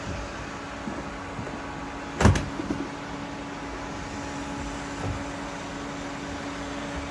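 Robot vacuum cleaners running with a steady motor hum, and a sharp double knock a little over two seconds in.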